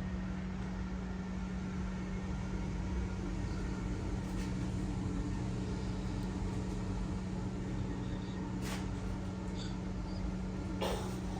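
Steady mechanical hum with a constant low tone, with a couple of light clicks near the end.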